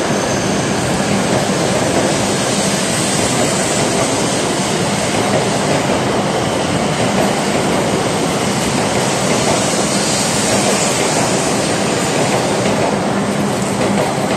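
W7 series Shinkansen train pulling out of the station, its cars passing close by with a steady running noise and a faint low hum.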